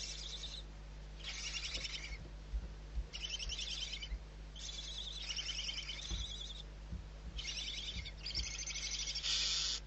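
Barn owl calling in a series of about eight short, raspy, rapidly pulsed bursts, each under a second long, at high pitch, with a steady low hum underneath.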